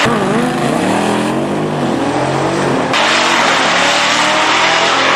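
Drag-racing engines revving and accelerating hard, their pitch sweeping up and down. The sound changes abruptly about three seconds in.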